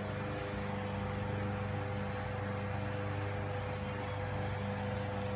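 Steady hum and hiss of a running kitchen appliance, with a few faint ticks near the end.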